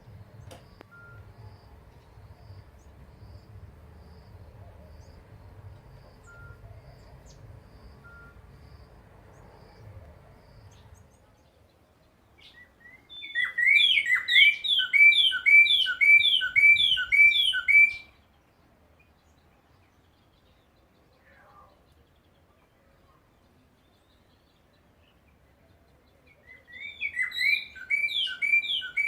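A bird sings two bursts of a fast, repeated phrase of clear, sliding whistled notes, the first lasting about five seconds around the middle and the second starting near the end. Before the song there is only a faint low background rumble.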